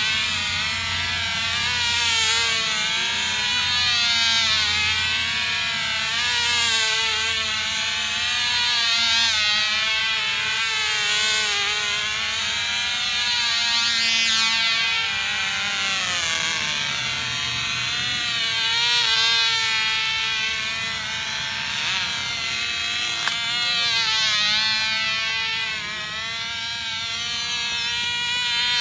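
Tiny Cox glow engine on a model airplane running flat out: a high, buzzing whine that swells and fades about every two and a half seconds as the plane circles.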